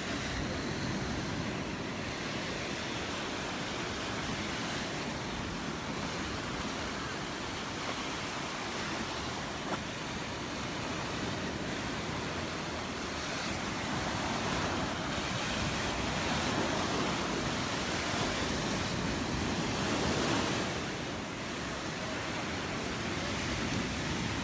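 Gulf of Mexico surf breaking and washing up the beach, swelling louder for several seconds past the middle, with wind on the microphone.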